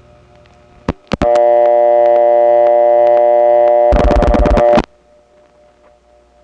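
Old number one step telephone office dial tone on the line: two clicks, then a loud, steady, buzzy tone of many pitches. Near the end a rapid run of about ten dial-pulse clicks cuts in and the tone stops, leaving low line hum.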